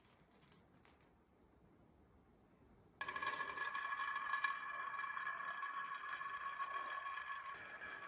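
A few faint clicks, then about three seconds in a battery-powered motor on a wooden marble run switches on suddenly and runs with a steady whine, over a rattle of marbles rolling on wood.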